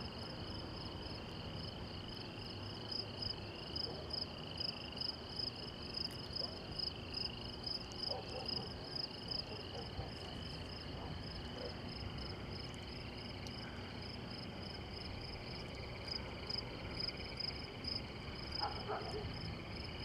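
Night insects, crickets among them, chirping in a regular rhythm of about two chirps a second, with a second insect calling steadily at a lower pitch.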